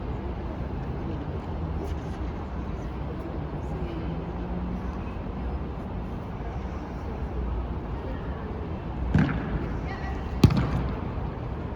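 Outdoor football match: a steady low rumble, then two thuds of a football being kicked, a duller one about nine seconds in and a sharp, louder one a second and a half later.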